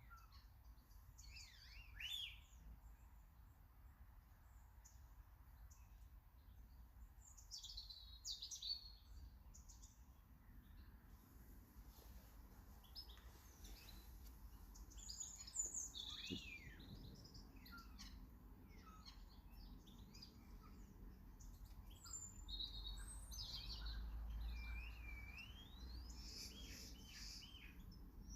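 Faint chirps and short whistled calls from several small garden songbirds, coming in scattered bursts throughout, over a steady low rumble.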